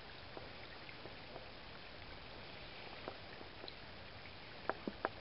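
Steady rush of flowing creek water, with a few sharp ticks near the end.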